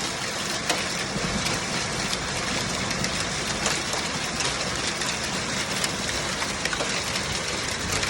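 Heavy rain pouring down: a steady rushing hiss with many sharp, scattered drop impacts.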